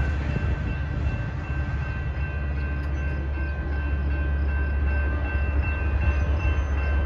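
A train passing close by, with a steady heavy low rumble and faint steady high tones above it.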